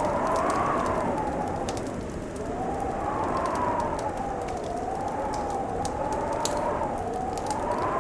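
Wood fire crackling with scattered sharp pops, over a moaning wind howl whose pitch rises and falls every two or three seconds.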